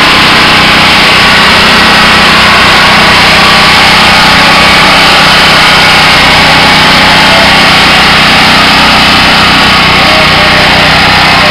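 Sears garden tractor's engine running hard under load as it pulls a weight sled down the track. It is loud and steady, with no big rise or fall in pitch.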